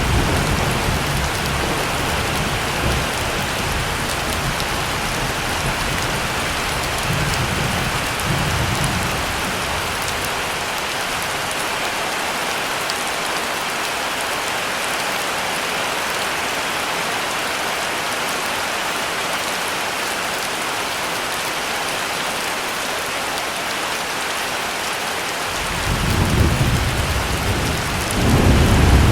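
Heavy rain falling steadily, with low rolls of thunder rumbling in the first few seconds and twice more near the end.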